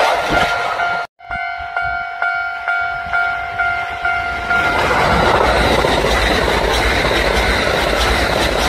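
Kintetsu electric train passing at speed: a loud rumble, cut off abruptly about a second in, then a steady ringing tone with regular clacks about twice a second, before the heavy rumble of a train running past returns about five seconds in.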